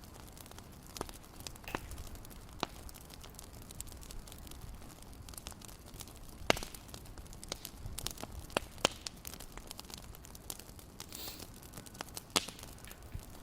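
Fireplace fire crackling: irregular sharp pops and snaps over a low steady rumble, with the loudest pops about six and a half and twelve seconds in.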